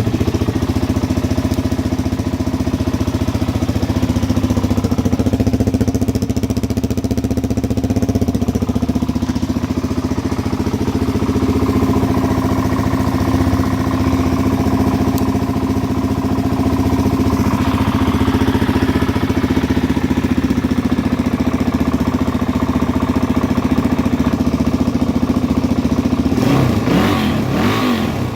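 2006 Suzuki DR-Z400's single-cylinder four-stroke engine idling steadily as it warms up from a cold start. Near the end the engine speed rises and falls briefly, as if blipped.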